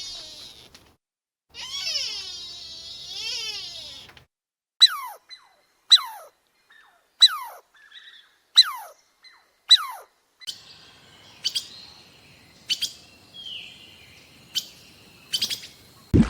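A bird calling. First comes a drawn-out call that wavers in pitch, then six loud, sharp chirps about a second apart, each sliding down in pitch. Fainter chirps and clicks follow over a thin, steady high tone.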